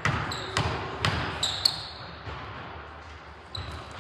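Basketball bouncing on a gym floor, four dribbles about half a second apart in the first two seconds, the last the loudest, then quieter. Short high sneaker squeaks come in between and again near the end.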